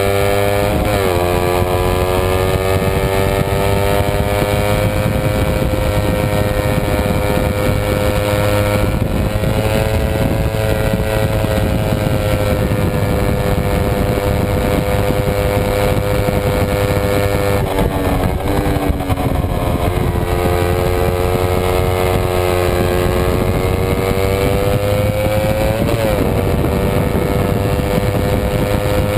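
Kawasaki Ninja 250 race bike's parallel-twin engine running hard at high revs under race pace. The pitch climbs slowly and then drops sharply at gear changes, about a second in, around eighteen seconds in and near the end.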